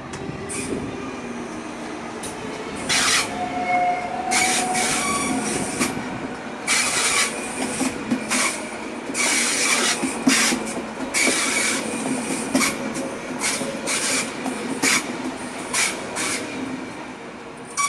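ICE electric multiple unit pulling into the station and braking along the platform. A low rumble from the running gear builds at first. From about three seconds in it carries a long run of short, high-pitched squeals and hisses as the train slows.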